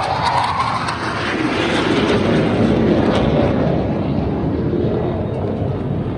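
Fighter jet flying past, its jet engine a loud, steady roar that eases a little toward the end.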